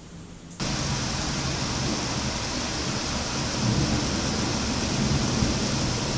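Heavy rain pouring down steadily during a thunderstorm. It starts abruptly about half a second in, after a much quieter stretch.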